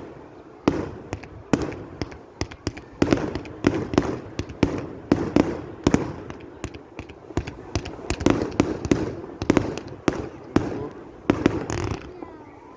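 Fireworks display: a rapid, irregular run of sharp bangs and crackles, several a second.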